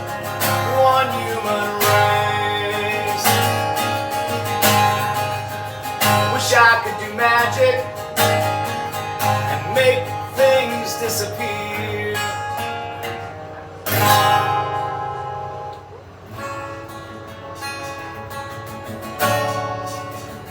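Acoustic guitar strummed in an instrumental break of a folk song, with heavy strokes about 14 and 19 seconds in.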